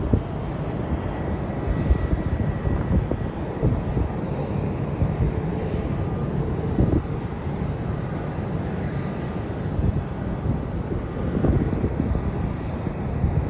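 Steady noise of jet airliner engines heard at the airport, with gusts of wind buffeting the microphone.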